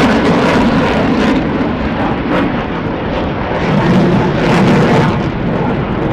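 Loud, steady noise of jet fighter engines from fighters flying a mock dogfight display, swelling slightly about four seconds in.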